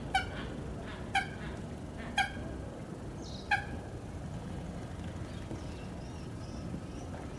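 A bird giving short, sharp, pitched calls: four of them about a second apart in the first half, with faint higher chirps later, over a steady low background rumble.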